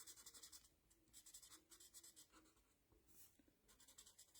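Faint scratching of a marker tip on paper, colouring in three short runs of quick back-and-forth strokes with brief pauses between them.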